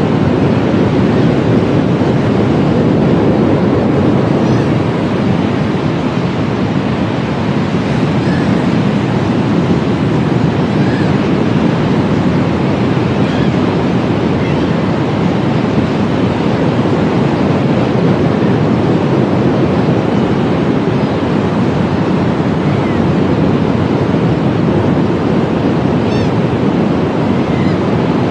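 Ocean surf washing steadily, with faint short seagull calls now and then.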